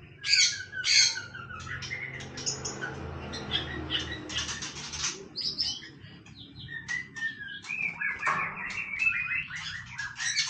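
White-rumped shama singing: a varied run of whistled notes and pitch glides mixed with rapid clicking, chattering phrases, almost without pause.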